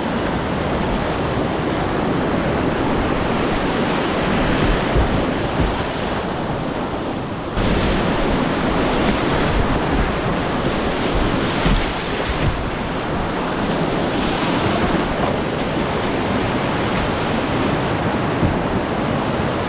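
Whitewater rushing loudly around the kayak in the rapids, a steady noise of churning river water with some wind on the microphone; the sound changes abruptly about seven and a half seconds in.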